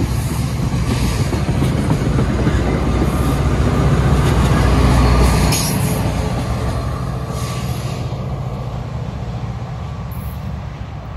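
Commuter train rolling past on the rails, its wheels and cars making a loud running noise that builds to a peak about halfway through and then slowly fades.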